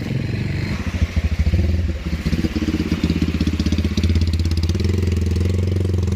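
Motorcycle engine running close by, its firing uneven about a second in and then settling into a steady, louder run for the last couple of seconds.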